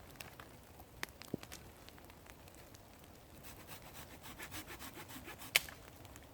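Hand saw cutting into a dead, rain-soaked branch to reach the dry wood inside: a few scattered clicks, then a fast run of short saw strokes in the second half, ending in a sharp crack shortly before the end.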